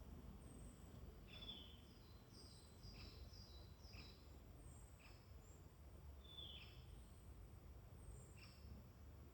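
Faint woodland songbirds calling: several birds giving short high chirps and thin, falling whistled notes, scattered every second or so, over a low steady background rumble.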